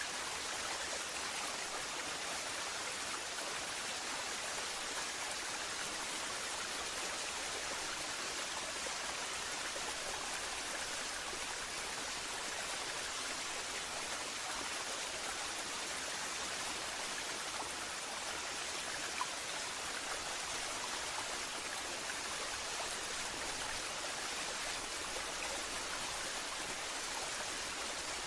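Waterfall rushing in a steady, even wash of falling water.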